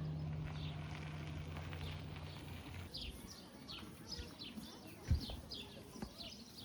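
A bird chirping in a quick run of short, high, falling notes, about four a second, starting about halfway through. A low steady hum sounds under the first half and stops, and there is a single thump near the middle.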